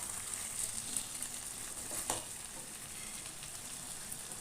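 Chicken curry in coconut milk sizzling gently in an uncovered pan over a low flame, with a faint click about two seconds in.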